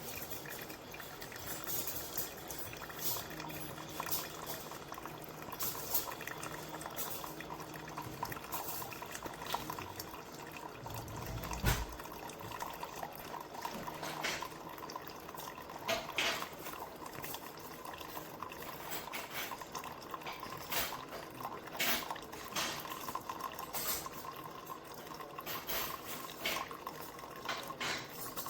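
Ninja DualBrew coffee maker brewing, with liquid dripping and sputtering into the cup alongside scattered small clicks. One heavier thump comes about twelve seconds in.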